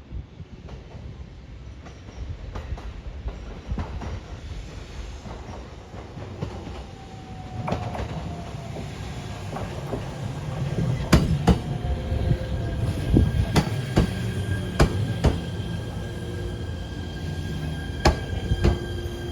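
E127 series electric multiple unit arriving at a platform, its wheels knocking over rail joints in repeated pairs of clacks that become loudest about halfway through. A slowly falling whine runs under it as the train slows, and steady high tones join in for the later part.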